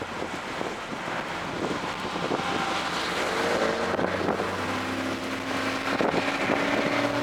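Toyota GR Corolla's turbocharged 1.6-litre three-cylinder under acceleration on track, its note rising about three seconds in and then holding steady, over wind and road noise.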